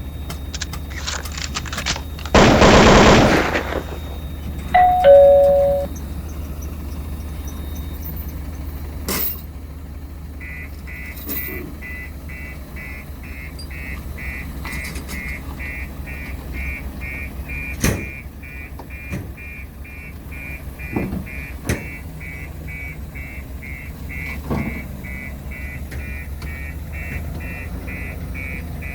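Engine of a 20-tonne road roller running steadily, with a loud burst of noise about two to four seconds in and a short tone dropping in pitch around five seconds. From about ten seconds a reversing beeper sounds, about two beeps a second.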